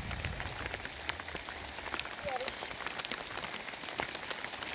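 Heavy mountain rain falling, with dense sharp drop ticks over a steady hiss.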